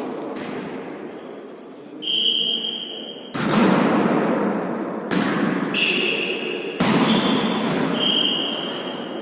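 A volley tennis rally: three sharp ball strikes about a second and a half apart, each ringing briefly in the hall, with short high squeaks of shoes on the court floor between them.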